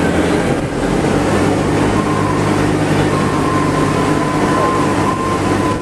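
Open-air passenger tram under way: its tractor engine drones steadily under rolling and wind noise, and a thin steady whine comes in about two seconds in.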